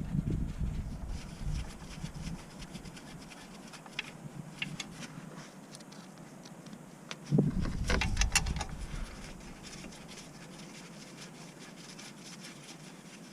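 Scattered light clicks and scraping, like tools and parts being handled, with a louder clatter and knock about seven seconds in.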